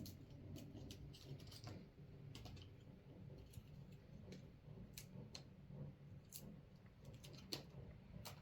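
Faint, irregular sharp clicks and ticks, a few a second at most, over a low steady rumble.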